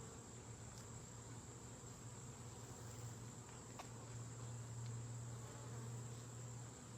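Honeybees buzzing around an opened hive: a low hum that wavers and swells about halfway through, over a steady thin high-pitched tone, with a few faint ticks.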